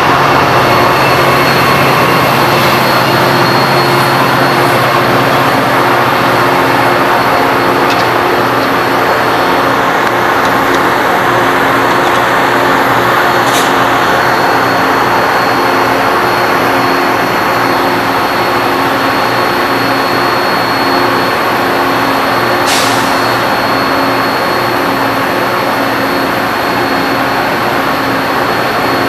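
A train's diesel locomotive running steadily, a loud even hum under a wide rushing noise, with two short sharp clicks, one about halfway through and one later.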